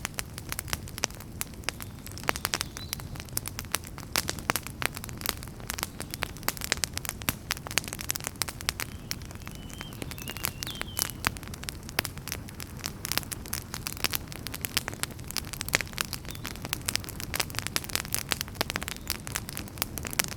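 Fireplace fire crackling: a dense, irregular run of sharp pops and snaps over a steady low rumble of the flames, with a faint brief whistle about ten seconds in.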